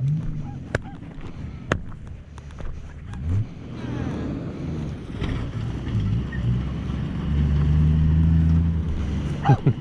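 A motor vehicle's engine running steadily, its hum growing louder for a couple of seconds about seven seconds in, with wind on the microphone and a few short calls from a flock of sheep crossing the road.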